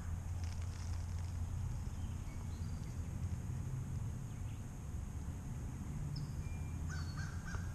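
Steady low rumble with faint rustling of leaf litter being handled. Near the end a bird starts a fast run of short repeated calls.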